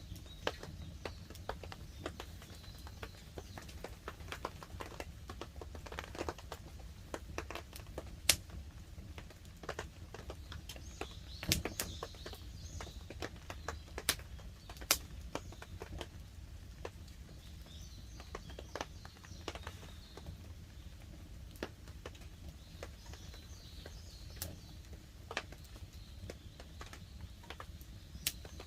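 Wood campfire crackling, with irregular sharp pops and snaps from the burning wood, a few of them louder. Birds chirp faintly now and then.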